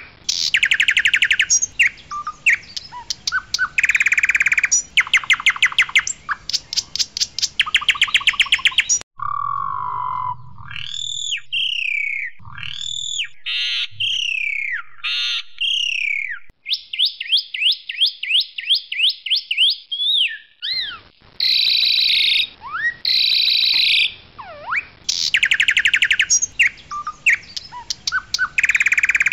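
Pied myna singing loudly, with bursts of harsh rattling chatter. About nine seconds in the song switches to clear slurred whistles and a quick run of rising whistled notes. The rattling chatter comes back about a second after the twenty-second mark.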